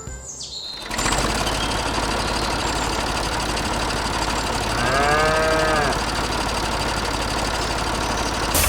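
A small motor running steadily with a fast, even rattle, starting about a second in. Over it, about five seconds in, a cow moos once in a rising-then-falling call lasting about a second.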